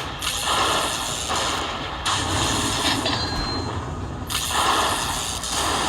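Poker machine sound effects: blocks of noisy spinning sound, each a second or two long, that start and stop abruptly over a steady low hum.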